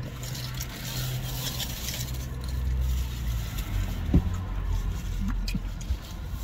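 Car engine idling, a steady low rumble heard from inside the cabin, with light rustling and a single sharp knock about four seconds in.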